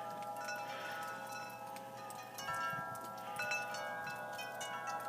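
Wind chimes ringing: many overlapping metallic tones, each struck at irregular moments and left to ring on.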